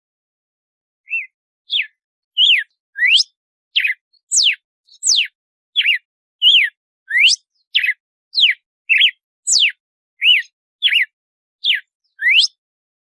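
Red-cowled cardinal (galo-de-campina) singing in the 'açoite' song style: a run of clear whistled notes, some sweeping up and some sweeping down, nearly two a second, starting about a second in.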